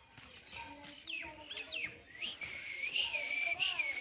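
Birds chirping and calling, with repeated high calls that slide up and down in pitch. A thin, steady high tone joins about halfway through.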